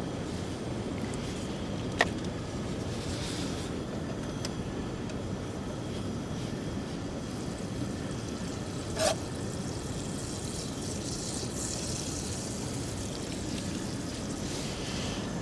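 Strong wind blowing steadily, with a sharp click about two seconds in and a short knock about nine seconds in.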